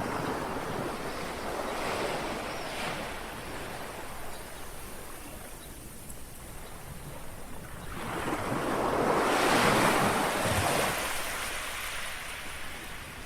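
Small sea waves lapping on a shore, a wash of surf that swells at the start and again, more strongly, about eight seconds in before ebbing away.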